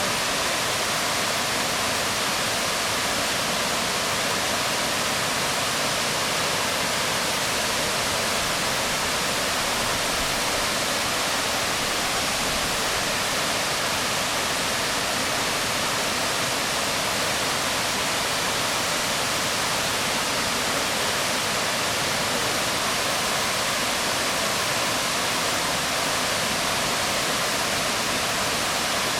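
Waterfall pouring onto rocks: a steady, even rush of water that does not change.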